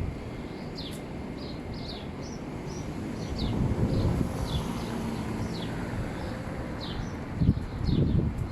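A small bird chirping repeatedly: short, high, falling chirps, about one or two a second, over a steady low outdoor rumble. Dull low thuds come about a third of the way in and again near the end.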